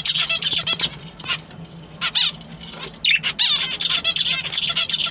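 Caged finches and lovebirds chirping and chattering, with the finches' calls the loudest. The calls come in busy bursts, then run on without a break from about three seconds in, over a faint steady low hum.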